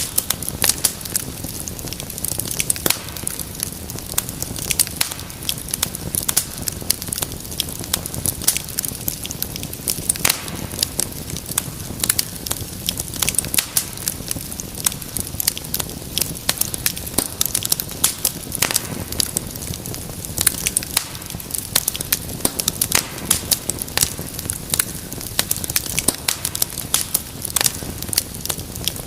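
Wood fire burning in a fireplace: dense, irregular crackling and popping over a soft steady rush of flame.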